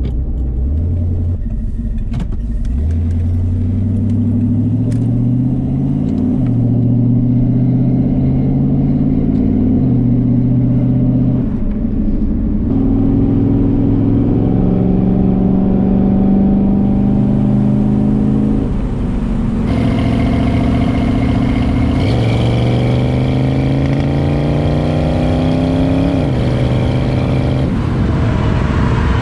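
1979 Ford Mustang's V8 engine pulling the car along, its note repeatedly climbing in pitch and then dropping back as the gears change, several times over.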